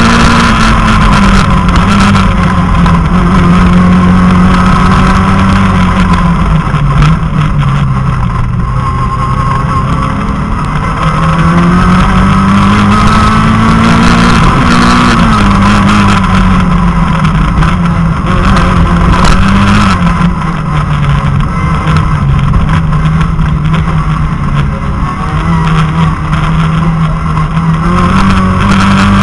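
Citroën Saxo rally car's four-cylinder engine heard from inside the cabin, driven hard on a special stage. The engine note repeatedly climbs and drops as the car accelerates and slows for corners, over steady road and tyre noise.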